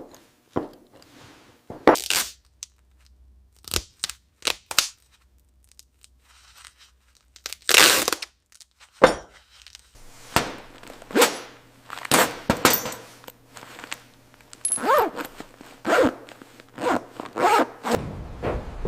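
Close handling sounds of gear being worked: a string of short scrapes, rips and clicks, some pulled out like tape or a zipper. A steady rushing noise comes in near the end.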